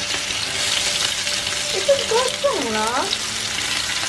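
Meat patties sizzling steadily in hot oil in a frying pan while they are turned with wooden spatulas.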